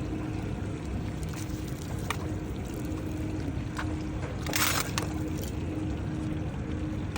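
Steady low rumble of a boat on the water, a faint hum under it, with water sloshing and a brief splash about four and a half seconds in.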